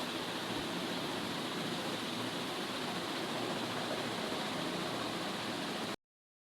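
1981 GEC Whispair 1200 mm ceiling fan, fitted with new SKF ball bearings, running at speed: a steady rush of air that cuts off suddenly about six seconds in.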